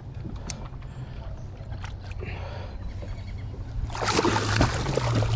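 Water splashing and sloshing beside a kayak as a hooked largemouth bass thrashes at the surface during the fight. The splashing gets loud about four seconds in.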